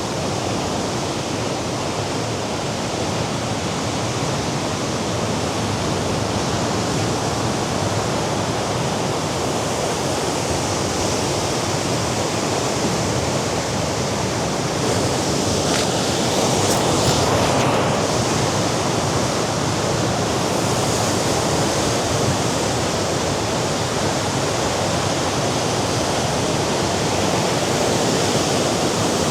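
Mediterranean sea surf washing against the rocky shore below the cliffs, a steady rushing noise that swells louder about halfway through as a bigger wave comes in.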